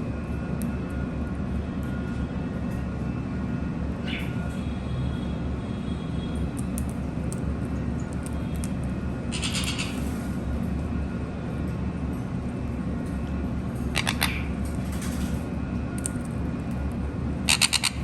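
Conures giving short, harsh squawks, four in all, spaced a few seconds apart, the last two the loudest, with faint clicks between them, over a steady low hum.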